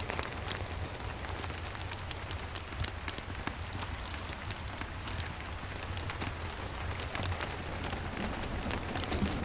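Steady rain with scattered sharp crackles and ticks from a wood fire, over a low steady rumble.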